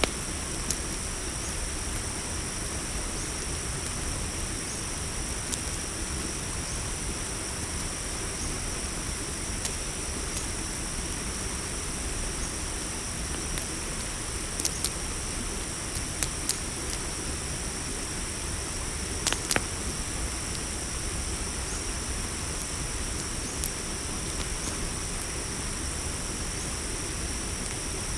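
Campfire crackling with scattered sharp pops, over a steady high-pitched chorus of crickets.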